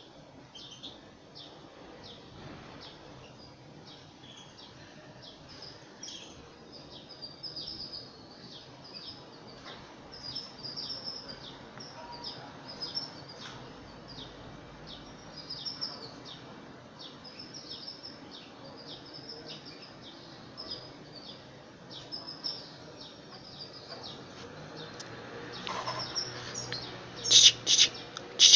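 Canary chick's high, thin begging chirps, repeated about twice a second while it is hand-fed, with a few louder chirps near the end.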